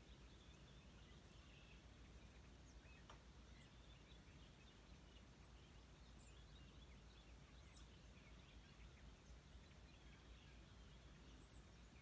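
Near silence: faint outdoor ambience with scattered short, high chirps of distant birds.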